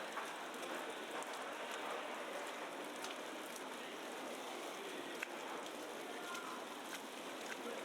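Steady patter and hiss of heavy falling snow on the street and surrounding surfaces, dotted with small ticks and one sharper click about five seconds in.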